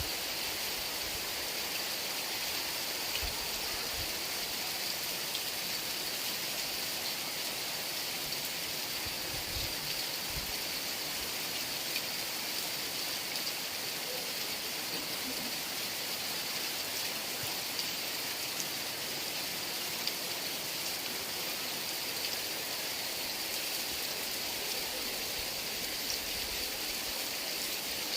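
Steady heavy rain, an even hiss of falling water with a few low gusts of wind early on.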